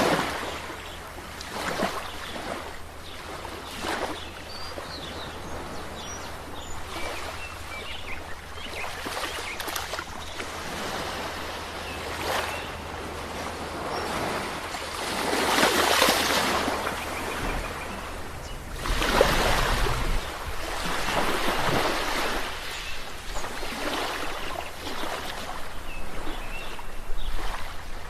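Sea waves breaking and washing up on the shore in repeated surges. The two biggest breakers come about halfway through, one after the other.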